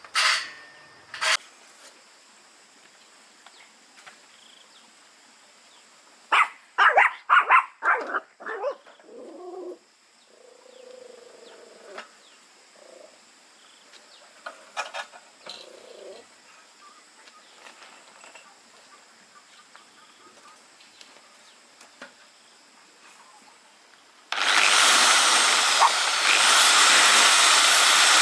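Loud, steady hissing noise from metalwork on iron bars that starts abruptly near the end. Before it there are a few sharp knocks and a brief run of short, loud sounds.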